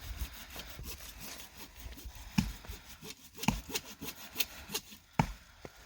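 Firewood being cut by hand with a saw, with scraping strokes through the wood. In the second half the strokes give way to several sharp, irregular knocks on wood.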